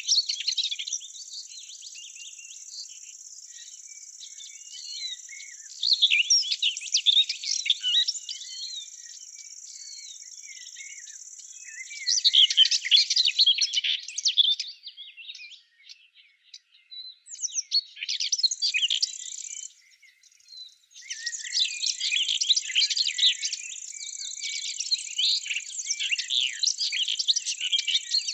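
Songbirds singing in bursts of rapid chirps over a steady, high-pitched insect trill. The trill drops out for several seconds in the middle.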